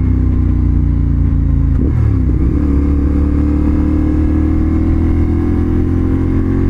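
CFMoto 450SR motorcycle's parallel-twin engine running under way, with a brief break in its note about two seconds in, then the revs climbing slowly.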